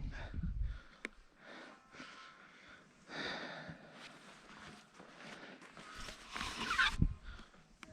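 A person breathing hard, mixed with the irregular rustle and crunch of moving through deep powder snow. The loudest burst comes near the end.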